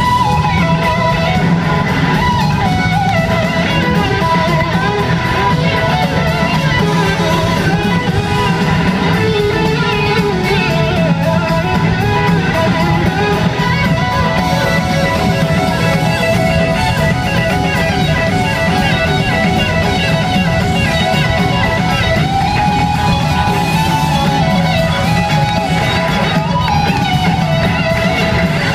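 A live blues-rock band playing loudly, with an electric guitar taking winding, bending lead lines over a steady bass and drums.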